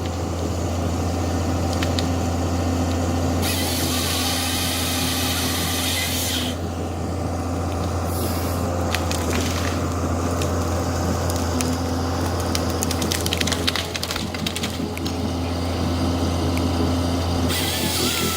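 Snowplow truck engine running steadily with a low hum, with a loud hissing rush about three seconds in that lasts about three seconds, and another near the end.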